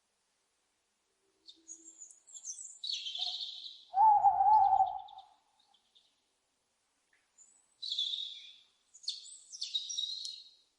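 Owl calls: harsh, hissing screeches, several between about one and three seconds in and again near the end, with one louder wavering hoot about four seconds in.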